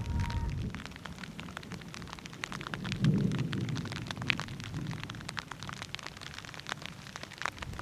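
Raindrops falling, heard as many irregular sharp ticks, with a low rumble that swells about three seconds in.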